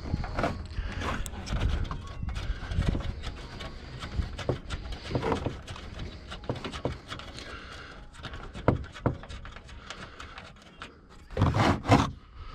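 Hand ratchet on a 14 mm socket clicking in short runs while loosening a rear strut top-mount bolt, with tools knocking against metal and a louder clatter of knocks near the end.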